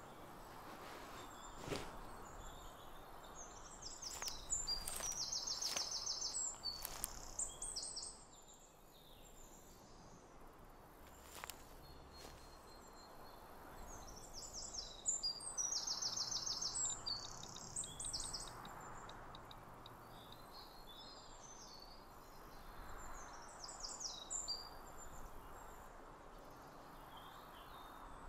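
Quiet outdoor ambience with a faint rushing haze and a songbird singing a quick chirping phrase three times, several seconds apart. A few soft clicks are heard in the first half.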